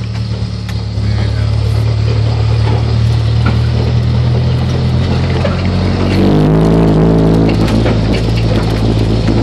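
Car engine running loud with its exhaust off, a steady drone whose pitch shifts about six seconds in as the engine speed changes.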